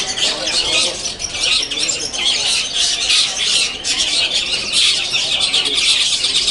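Many caged long-tailed shrikes (cendet) singing at once in a contest round, a dense, unbroken chatter of high, rapid calls with mimicked phrases.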